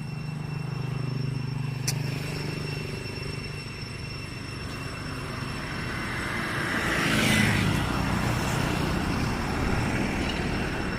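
A motor vehicle's engine hums, then a vehicle passes, growing louder to a peak about seven seconds in and fading again. There is a single sharp click about two seconds in.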